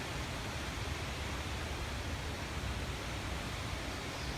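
Steady, even hiss of outdoor background noise with no distinct event in it.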